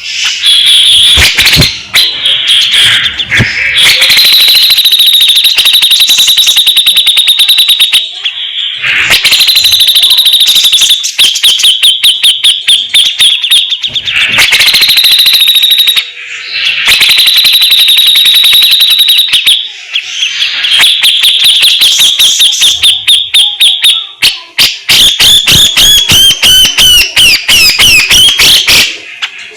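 Grey-cheeked bulbul (cucak jenggot) calling loudly in long runs of fast, tightly packed harsh chattering notes, the rasping 'besetan' of a bird in full voice. There are a few short breaks, and the notes turn quicker and stuttering near the end.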